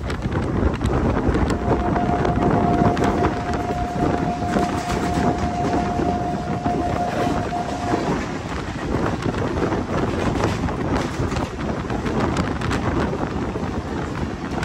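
Rushing wind and rumbling wheel clatter at the open door of a fast-moving passenger train, while another train passes on the next track. A single steady horn note sounds from about a second and a half in until about eight seconds.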